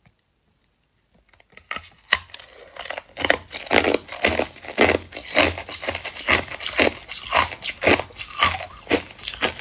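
A person chewing hard clear ice: a steady run of sharp crunches, about two a second, beginning about a second and a half in.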